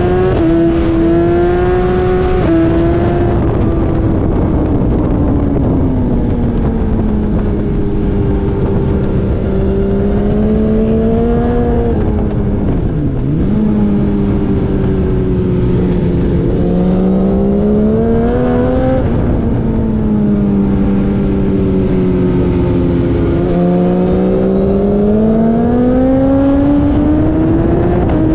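A race car's engine running hard without a break, its revs climbing and falling several times as it accelerates and slows, with quick drops in pitch at gear changes. There is a sharp dip and recovery about thirteen seconds in.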